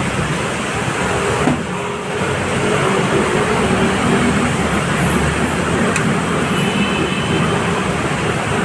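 Steady motor-vehicle road noise, with a short knock about a second and a half in.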